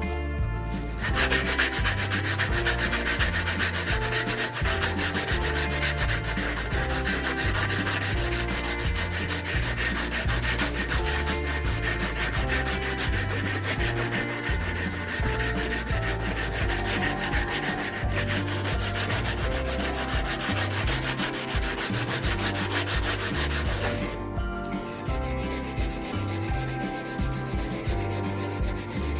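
Abrasive being rubbed back and forth over the rusty steel of a chisel, a steady rapid scratchy scrubbing that cleans off corrosion. It breaks off briefly about 24 seconds in, then carries on.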